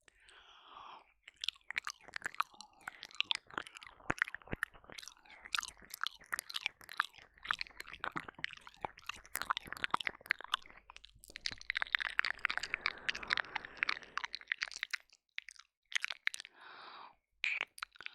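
Close-miked ASMR mouth sounds of ear licking and 'ear eating' on a binaural microphone: a dense run of wet clicks, smacks and slurps, with a longer breathy, wet stretch about two-thirds of the way through and sparser clicks near the end.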